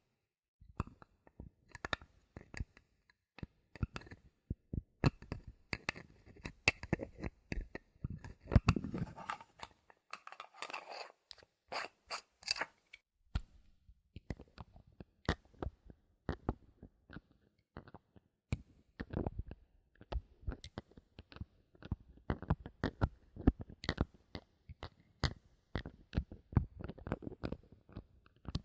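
Bottle caps handled close to the microphone: rapid, irregular clicking, tapping and scraping, with a stretch of rustling scrapes about eight to thirteen seconds in.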